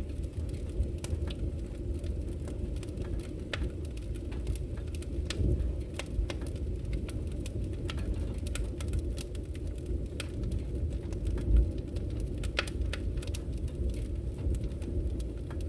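Wood fire burning in a fireplace: a steady low rumble of flames with many scattered sharp crackles and pops, and a louder low thump about eleven and a half seconds in.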